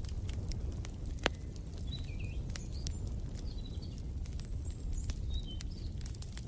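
Wood fire crackling over a steady low rumble of flames, with frequent sharp pops and one louder pop about a second in. Small birds chirp in short calls from about two seconds in.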